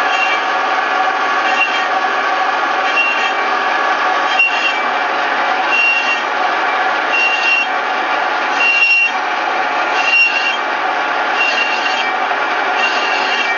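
Metal lathe running with a cutting tool turning the rim edge of an aluminium alloy wheel: a steady machine hum with a higher squeal that comes and goes about every second and a half.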